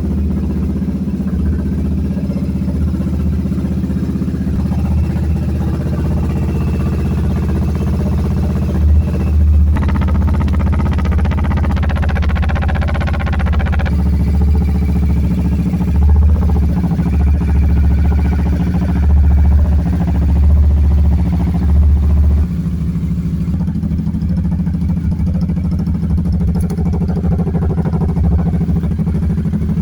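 Kawasaki Z650 motorcycle engine running through its exhaust, idling steadily with several throttle blips that raise the revs for a second or two at a time in the middle stretch, then settling back to idle.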